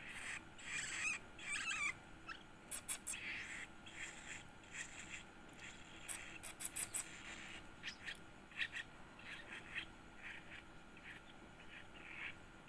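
Yellow-vented bulbul nestling giving short, wavering begging calls, busiest in the first couple of seconds, mixed with a scatter of sharp clicks that are the loudest sounds, about three seconds in and again around six to seven seconds.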